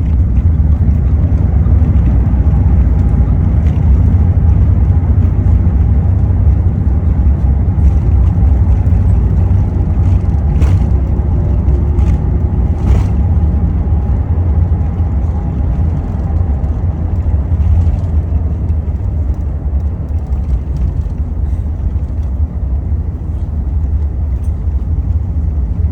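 Airbus A380 cabin noise: a loud, steady low rumble from the engines and the airframe rolling on the ground after landing, easing off slightly in the second half, with two brief clicks or rattles near the middle.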